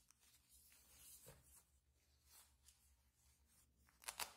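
Faint rustling of a white foam packing sleeve handled by gloved hands, with two louder crinkles close together near the end as the wrap is pulled open.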